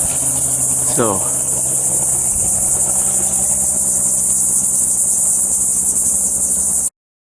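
A dense, steady chorus of insects such as crickets, shrill and high-pitched with a fast even pulse. A man says a single word about a second in, and the sound cuts out completely for about half a second near the end.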